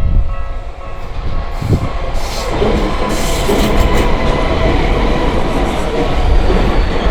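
Tokyu Toyoko Line electric train passing over a level crossing, its wheels rumbling and clattering over the rails from about two seconds in. Over the first second or two, the crossing's warning bell rings as a steady tone and fades under the train.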